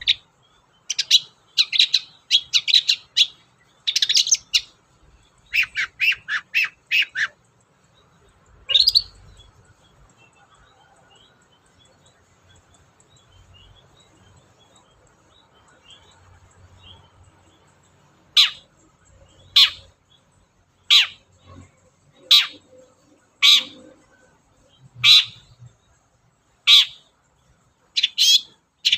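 Long-tailed shrike (cendet) calling: bursts of rapid chattering notes for the first seven seconds, then a pause of several seconds, then a series of single short calls a little over a second apart.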